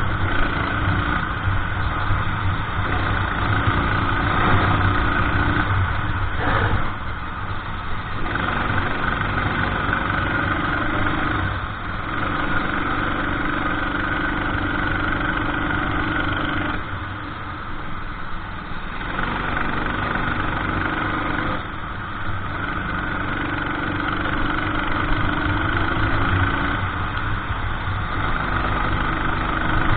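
Racing kart engine at race pace, the revs climbing along the straights and falling away several times as the throttle is lifted for corners.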